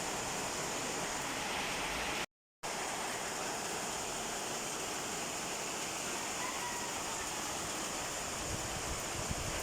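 Heavy torrential rain pouring down, a steady, even hiss with no letup, broken only by a split second of silence a little over two seconds in.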